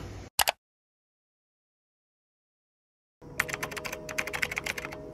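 A brief double click, then dead silence for under three seconds, then a fast run of light clicks and clacks, about ten a second, over a faint steady hum.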